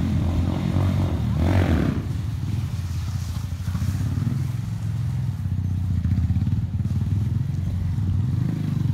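Motorcycle engine running steadily at fairly even revs while the bike is ridden in a wheelie, with a brief louder noise about a second and a half in.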